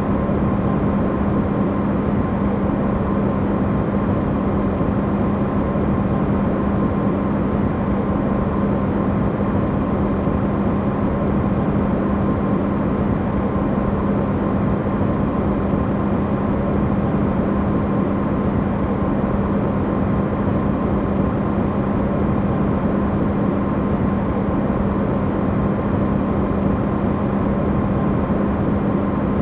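Amplified refrigerator running: a steady, unbroken hum with a strong low tone and a fainter higher one over a dense low rumble.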